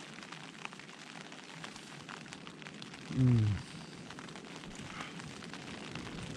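Steady soft hiss of rain with scattered small crackling ticks. About three seconds in there is a man's brief vocal sound, falling in pitch.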